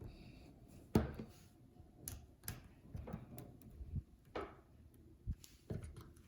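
Small phone-repair tools clicking and tapping against an opened iPhone 8, a string of irregular light clicks with the sharpest about a second in.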